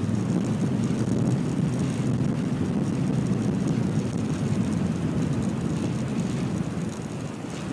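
Steady low rush of wind over the microphone of a moving bicycle, easing slightly near the end.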